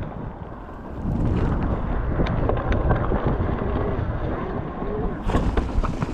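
Wind buffeting the microphone over the rumble of a mountain bike rolling along a wet trail. The rumble gets louder about a second in, with scattered ticks and rattles from the bike.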